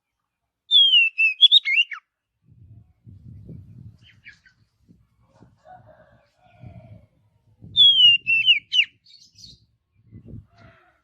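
Oriental magpie-robin singing: two short phrases about six seconds apart, each opening with a falling whistle and running into quick notes that rise and fall. Faint low rumbling between the phrases.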